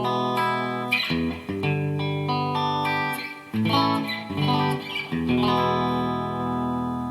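Yamaha Pacifica PAC012 electric guitar played through an amplifier on its number 2 pickup position, the humbucker with the middle pickup: chords struck every second or two and left to ring.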